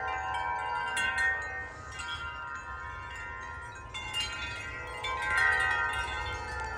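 Several tuned metal wind chimes, among them a Gregorian baritone chime, ringing wildly in gusty wind. Many overlapping tones sustain throughout, with fresh clusters of strikes about a second in and again about four seconds in.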